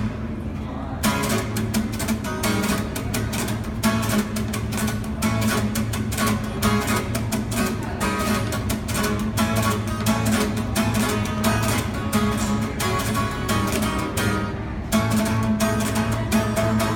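Acoustic guitar played on its own, with a steady, rhythmic picked and strummed pattern and no singing.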